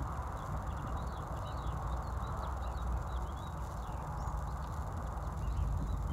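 Small songbirds chirping over and over, with a steady low rumble underneath.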